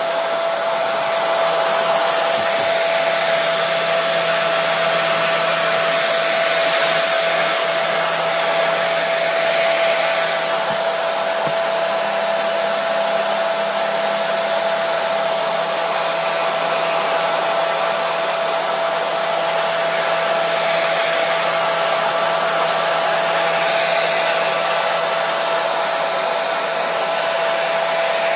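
Hair dryer running continuously: a steady rush of air with a constant motor whine, unchanging in level or pitch.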